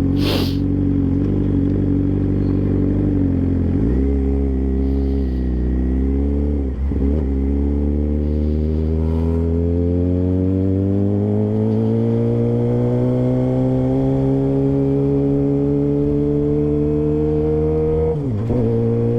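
Suzuki GSX-R600 sportbike's inline-four engine under way. Its note shifts about four seconds in and drops briefly about seven seconds in, then climbs steadily in pitch for about ten seconds as the bike pulls, with another brief drop near the end. A short click at the very start.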